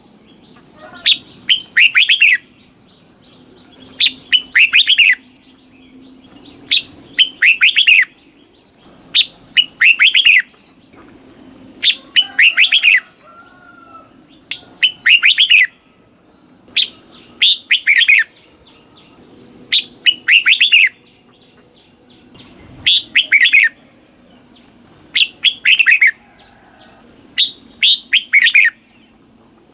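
Red-whiskered bulbul singing: short phrases of quick bright whistled notes, each about a second long, repeated roughly every two and a half seconds.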